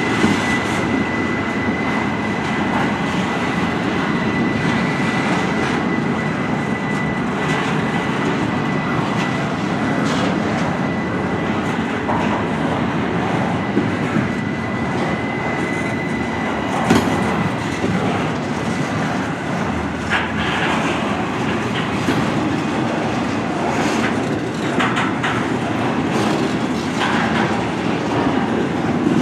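Double-stack intermodal freight cars rolling past at steady speed: a continuous rumble of steel wheels on rail with clickety-clack over the rail joints and sharper clanks in the second half. A thin, steady high tone rides over the rumble for about the first half, then fades out.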